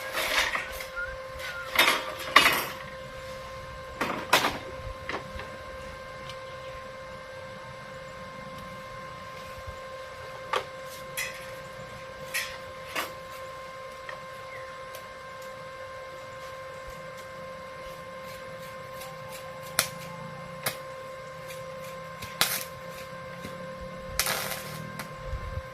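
Scattered sharp knocks and clicks of metalwork on a steel wall frame being welded, the loudest near the start and about four and twenty-four seconds in, over a steady electrical hum.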